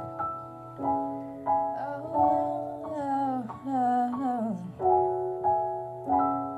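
Slow keyboard chords opening an R&B song, a new chord struck about every second, with a melodic line sliding down in pitch in the middle.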